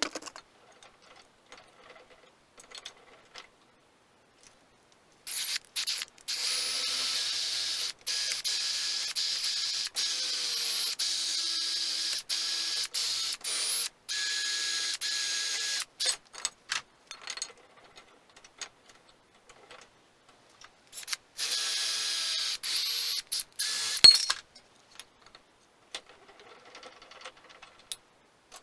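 A handheld power tool running in two stretches, one of about ten seconds and a shorter one of about three seconds near the end, with scattered sharp clicks and tool clatter in the gaps.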